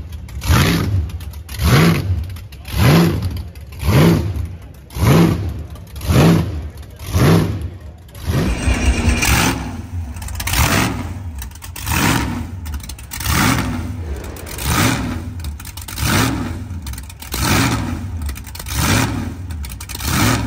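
A car engine revved over and over, about once a second, each rev climbing and then dropping back in pitch. About halfway through, the revs come a little softer and further apart.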